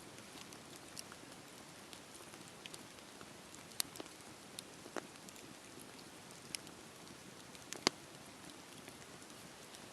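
Campfire burning: a steady low hiss of flames with scattered sharp crackles and pops, the loudest about four and eight seconds in.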